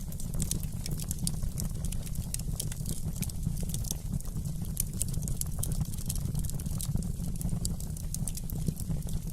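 Wood fire in a fireplace crackling: frequent sharp pops and snaps over a steady low rumble.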